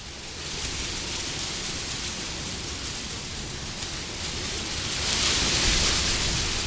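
Wind blowing as a steady hiss that swells into a stronger gust about five seconds in, then eases.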